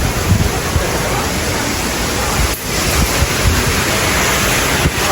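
Heavy downpour hissing steadily, with wind buffeting the microphone in uneven low rumbles.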